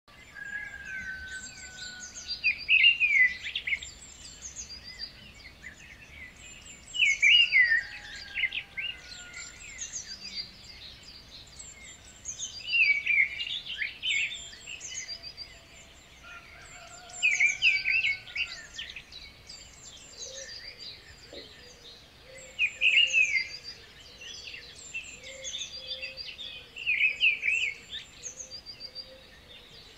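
Several birds singing: one repeats a loud, quick phrase about every five seconds, while others keep up higher, repeated chirps between phrases.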